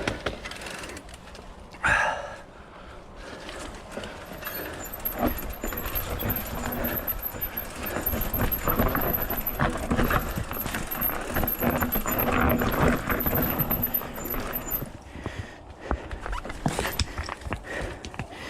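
A hiker's irregular footsteps and the rustle of clothing and gear while walking a mountain trail, with a louder burst about two seconds in.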